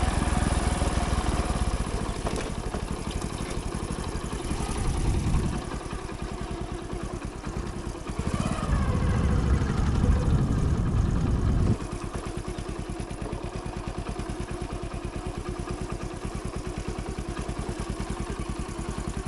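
Hero Splendor motorcycle's single-cylinder four-stroke engine running on the move. It is louder for the first five seconds and again from about eight seconds in, then drops suddenly to a quieter, even beat near twelve seconds.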